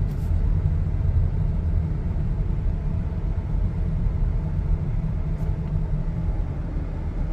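Steady low rumble of a car driving slowly, as heard from inside the cabin: engine and tyre noise.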